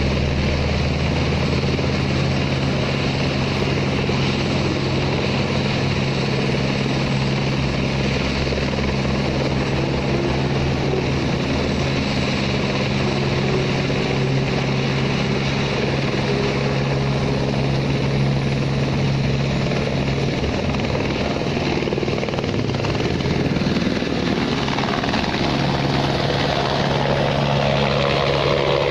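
Helicopter's turbine engine and rotor running steadily at close range: a fast, even rotor beat under a continuous engine whine, with the pitch shifting somewhat near the end.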